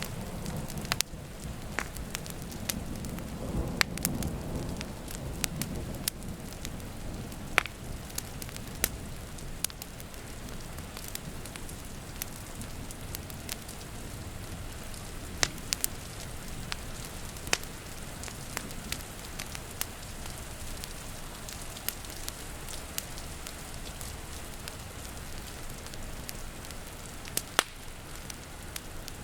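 Wood fire crackling, with sharp pops every second or two, over a steady patter of rain. A low rumble of distant thunder sounds during the first six seconds or so.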